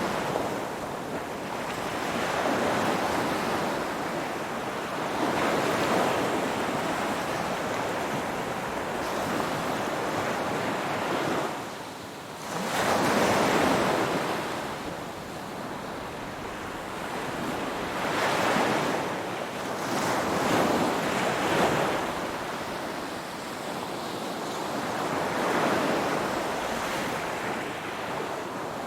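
Ocean waves breaking and washing on the shore, each surge swelling and falling away every few seconds, with the loudest breaker about thirteen seconds in.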